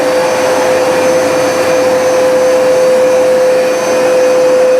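Hoover SmartWash automatic carpet cleaner running: a steady motor whine over the rushing air of its suction.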